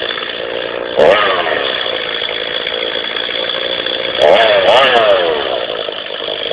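Two-stroke chainsaw engine running steadily, blipped up to high revs once about a second in and twice in quick succession near the middle, each rev dropping back.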